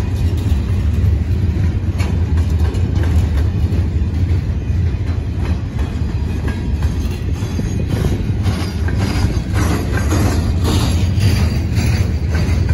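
Freight train boxcars rolling past at close range: a steady low rumble of steel wheels on the rails, with clicks and clacks from the wheels and car bodies that come thicker in the second half.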